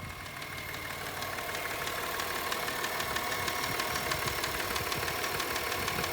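Subaru Outback engine idling with a fast, even clicking from the engine, growing louder over the first couple of seconds and then steady. The owner points to this clicking noise as the engine's problem, with the check engine light on.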